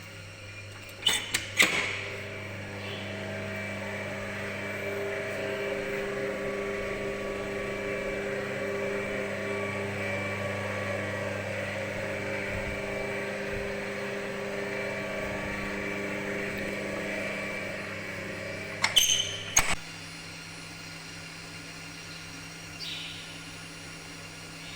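Milk-vat wash system's acid dosing pump running: a couple of clicks about a second in, then a steady mechanical hum for about seventeen seconds, ending with more clicks as it stops. A lower, quieter hum carries on afterwards.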